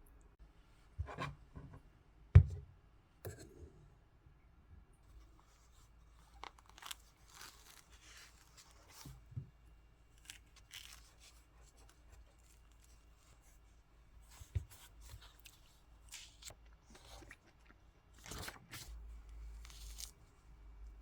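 Hands handling something at close range: intermittent rustling and tearing with small clicks, a sharp knock about two seconds in, and a longer stretch of rustling near the end.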